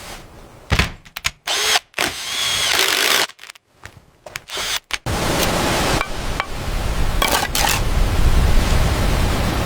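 A power tool running in short bursts, one with a high whine, then running steadily from about halfway through.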